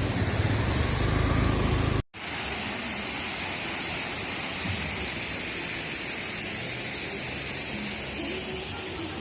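Wind rumbling on the microphone, then, after a sudden cut about two seconds in, a steady hiss of rushing water.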